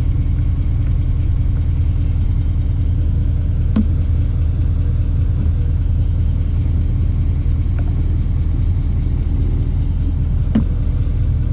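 A diesel truck engine idling steadily, a constant low rumble, with two faint clicks about four and ten seconds in.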